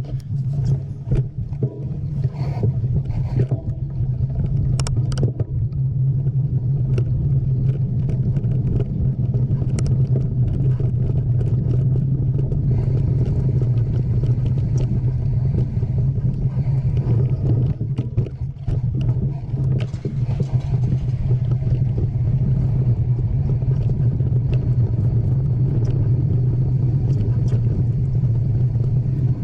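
Mountain bike ride: a steady low rumble of wind and tyres on the camera's microphone, with scattered rattling clicks from the bike over rough ground.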